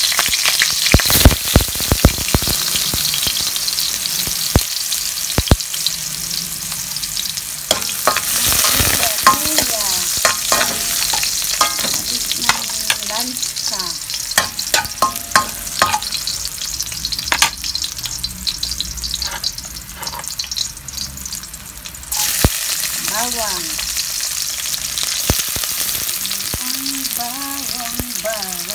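Ginger and garlic frying in hot oil in a wok: a steady sizzle peppered with sharp crackles and pops, which gets louder about three-quarters of the way through.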